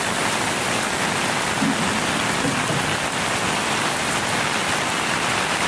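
Heavy rain pouring down, a steady, dense hiss without letup.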